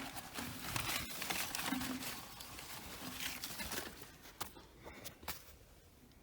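Irregular scuffing and rustling, like footsteps and handling, with a few sharp clicks near the end before it dies away.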